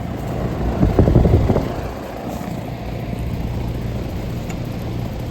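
Outdoor residential air-conditioner condensing unit running, the compressor and condenser fan giving a steady low hum, with a louder burst of noise about a second in.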